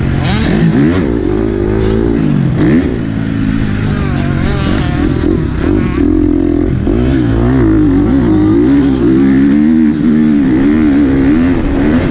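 Motocross bike engine revving hard and easing off over and over as it is ridden around a dirt track, its pitch repeatedly rising and falling.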